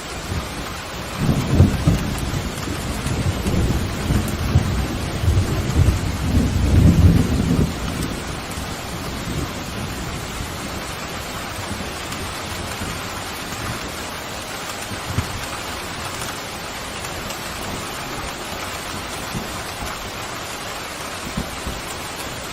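Steady heavy rain with a roll of thunder that rumbles low from about a second in and dies away by about eight seconds, leaving the rain alone.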